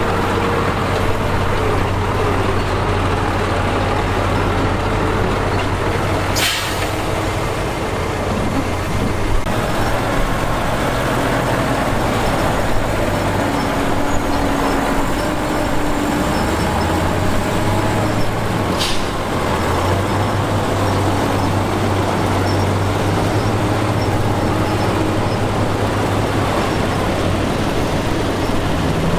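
Heavy diesel engines of earthmoving machines, a bulldozer and dump trucks, running steadily. Two short, sharp hisses of compressed air, typical of truck air brakes, come about six seconds in and again about nineteen seconds in.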